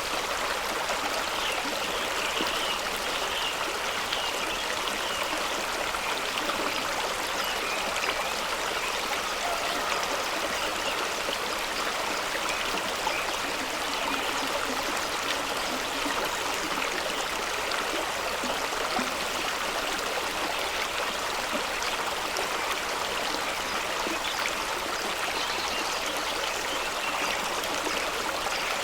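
Fast-running stream rushing and splashing over rocks, a steady, even water noise with bright trickling detail.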